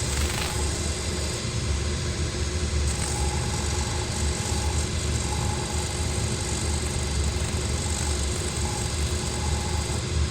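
A shoe-repair workshop machine, such as a heel finishing or sanding machine, running steadily with a strong low hum and an even hiss above it.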